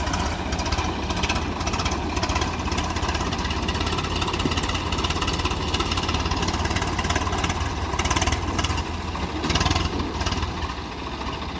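Swaraj tractor diesel engines running steadily with a strong low rumble, with brief surges about eight and nine and a half seconds in.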